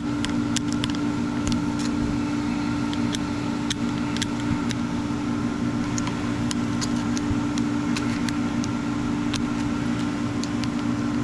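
Steady electric machine hum with a strong low tone, running evenly, with scattered light clicks and taps over it.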